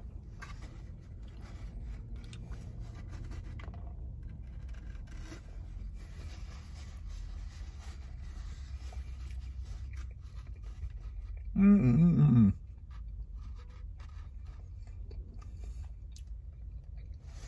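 A man chewing and eating a burrito inside a car cabin, with faint mouth and handling scrapes over a low steady hum. About twelve seconds in comes a loud vocal hum lasting about a second.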